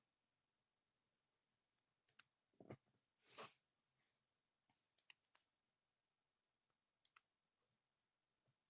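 Near silence broken by faint computer mouse clicks, several in quick pairs. About two and a half seconds in there is a soft thump, then a brief rush of noise.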